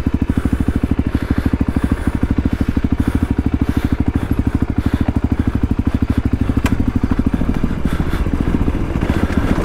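Voge 300 Rally's single-cylinder four-stroke engine running at steady, low revs, its firing pulses coming fast and even. There is one sharp click about two-thirds of the way through.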